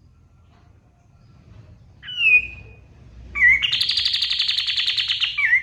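Kapas tembak songbird singing: a clear whistled note about two seconds in, then a short note that runs into a long, fast trill lasting nearly two seconds, with another note starting near the end.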